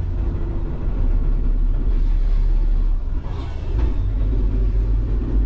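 Suzuki Jimny on the move, loaded with four adults and a full roof rack: a steady low engine and road rumble. There is a short rush of noise a little after three seconds in.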